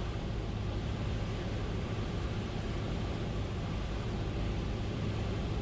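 Steady drone of a Piper Cherokee's piston engine and propeller heard inside the cockpit, with a low hum and an even rush of air noise, as the plane flies its final approach to land.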